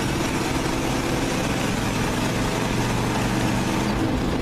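Vintage dump truck's engine running hard under acceleration as the driver holds the throttle down to build RPM before a shift, heard from inside the cab.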